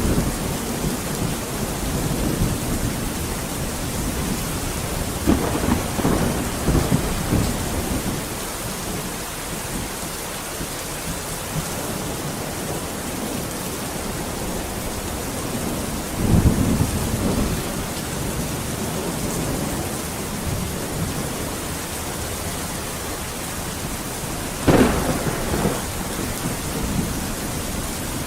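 Steady heavy rain with thunder rolling through it: low rumbles swell about five seconds in and again near the middle, and a sharper clap of thunder comes near the end.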